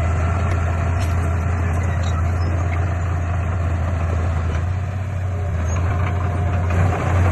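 Heavy earthmoving machine's diesel engine running steadily with a deep hum, easing off slightly about five seconds in and picking up again near the end.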